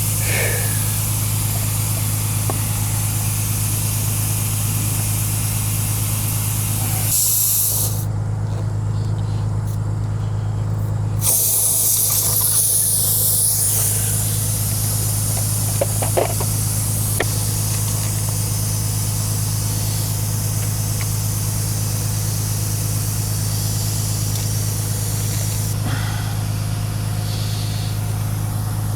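Kenworth W900 semi's diesel engine idling steadily under a constant hiss of air. The hiss swells louder about seven seconds in, drops out briefly, and returns louder around twelve seconds.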